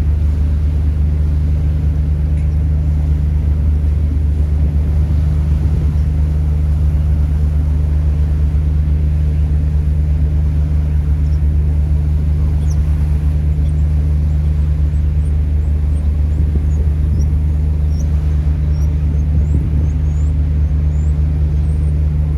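Ferry engine running with a steady, deep hum that holds constant throughout.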